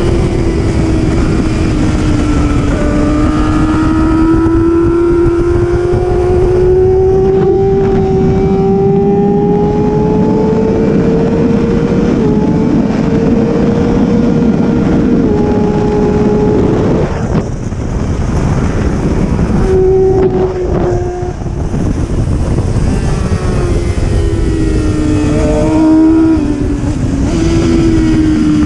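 Superbike engine pulling hard at high revs, its pitch climbing slowly and stepping down at two quick upshifts before halfway. A little past halfway it comes off the throttle with short blips of downshifts, then pulls again and downshifts near the end, over a heavy rush of wind.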